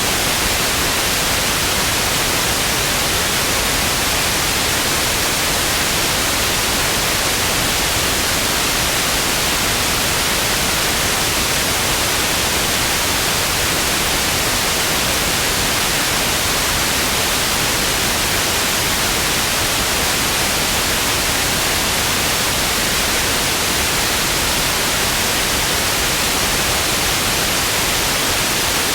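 Television static: a steady, even hiss of noise with no changes.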